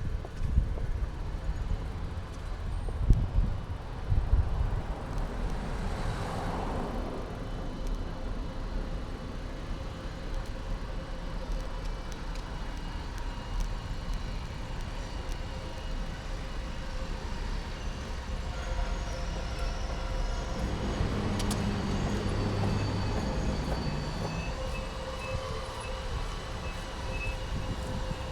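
Street traffic heard from a camera on a bicycle's handlebars, under the low rumble and knocks of the bike rolling over the road. A vehicle swishes past about six seconds in, and an engine hums nearby in the second half.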